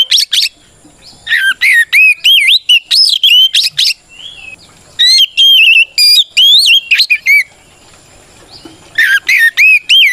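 Oriental magpie-robin (kacer) singing a loud challenge song: bouts of rapid whistled notes that sweep up and down, broken by short pauses. This is a fighting song that calls out a rival male.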